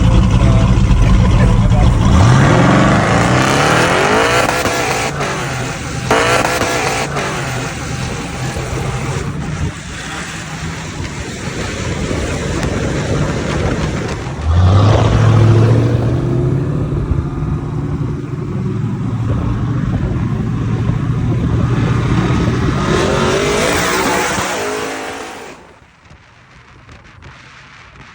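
A twin-turbo LSX V8 of about 1,100 hp in a Monte Carlo SS runs at a steady drone, then accelerates hard with its pitch rising about two seconds in. Two more hard pulls follow, near the middle and near the end, before it cuts off sharply to quiet.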